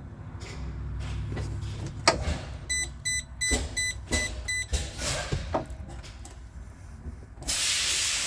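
School bus dashboard at key-on: a few sharp clicks and a quick run of about six short electronic beeps from the instrument cluster, then a steady hiss that comes on near the end.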